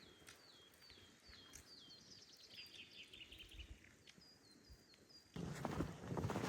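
A small songbird calling over and over, faint short high notes that each drop in pitch, with a quick rattling trill in the middle. Near the end, loud crunching footsteps in snow begin.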